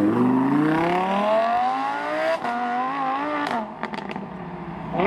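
A supercar engine accelerating hard, its note climbing steadily, then a gear change about two and a half seconds in. The engine runs on at a lower note, then falls away as the driver lifts off, with a few sharp exhaust cracks and one more crack near the end.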